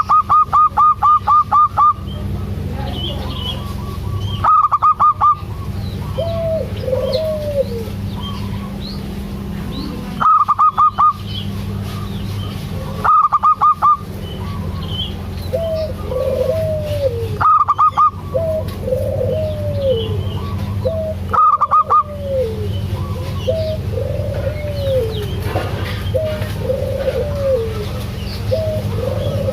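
Zebra dove (perkutut) singing: loud bursts of rapid staccato notes repeat every few seconds, with softer rising-and-falling coos in between. A steady low hum runs underneath.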